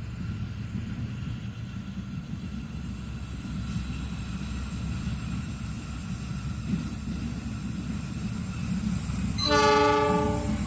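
Approaching train, a low rumble that grows slowly louder, then the locomotive's horn sounds once for about a second near the end.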